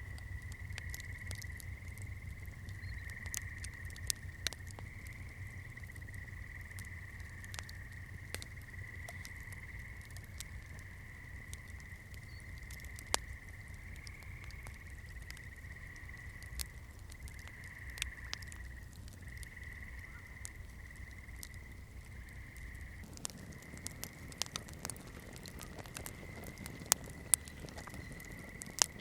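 Wood fire crackling, with irregular sharp pops and snaps and a low steady rumble that fades about 23 seconds in; the pops grow louder near the end. A steady high-pitched tone runs under it.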